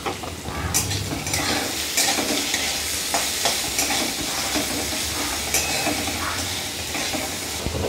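Diced potatoes sizzling in mustard oil in a metal kadai, stirred with a flat metal spatula that scrapes against the pan again and again.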